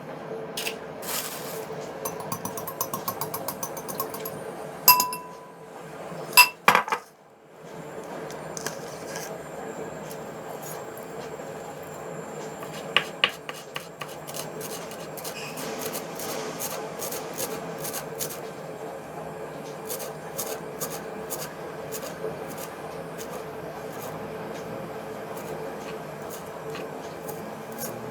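Kitchen clatter of utensils and glass or ceramic dishes clinking. A quick run of light ticks comes about two seconds in, and two ringing clinks come around five and six seconds in. After that there are only scattered light taps over a steady low hum.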